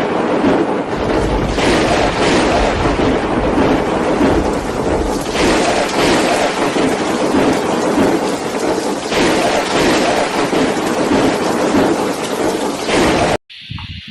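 Violent rainstorm with strong wind: a loud, dense rush of rain and wind with a deep rumble underneath, swelling and easing every few seconds. It cuts off abruptly near the end.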